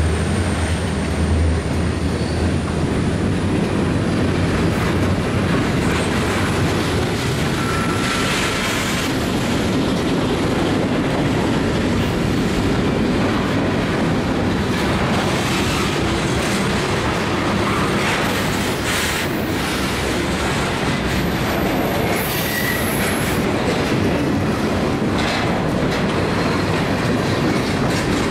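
Freight cars rolling past at close range: a steady wheel-on-rail rumble with clicking over rail joints and a couple of brief high wheel squeals. The trailing diesel locomotive's engine fades out in the first second or two.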